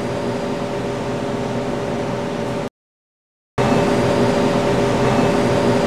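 Steady hiss and hum of a camcorder recording, with a few faint steady tones under it. About three seconds in, it cuts to dead silence for nearly a second, then comes back a little louder.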